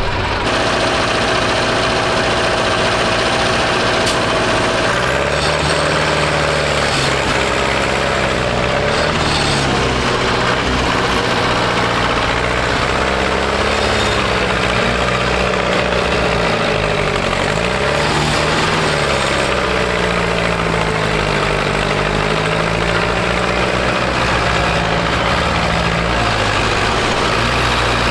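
Tractor diesel engine running loud and steady, its pitch rising and falling several times as the revs change.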